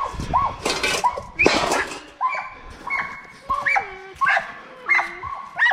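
Dogs whining and yipping excitedly: a string of short, high, arching whines about two a second, with two louder rough bursts about a second in.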